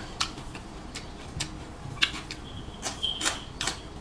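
Mouth sounds of someone eating with her fingers: irregular sharp clicks and smacks of chewing. A short high-pitched tone sounds about three seconds in.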